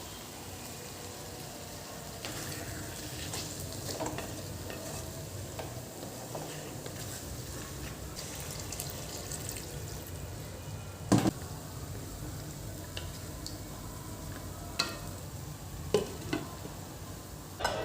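Food sizzling as it fries in a pan while a utensil stirs it, with a few sharp knocks of the utensil against the pan, the loudest about eleven seconds in.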